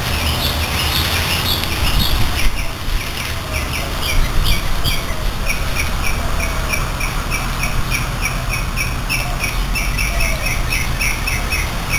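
A bird chirping over and over in short, evenly spaced calls, over a steady low rumble.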